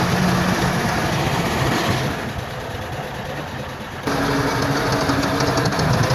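Bulldozer's diesel engine running with mechanical clatter. It drops quieter for about two seconds in the middle, then comes back abruptly at full level about four seconds in.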